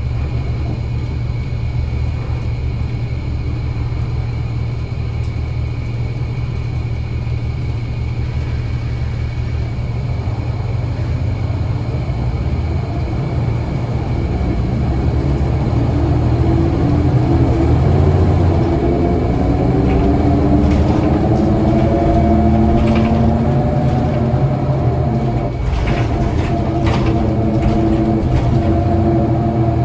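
Scania L94UA bus's diesel engine running with a steady low rumble, then climbing in pitch from about halfway as the bus pulls away and accelerates, with a few rattles near the end.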